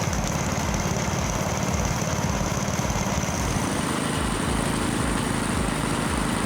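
A machine's engine running steadily with a rapid, even pulse; a high whine over it shifts up in pitch about halfway through.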